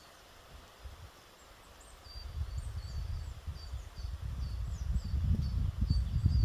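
A songbird singing, repeating a short, high, thin phrase over and over, about two phrases a second. About two seconds in, an irregular low rumble starts and grows louder, drowning the bird.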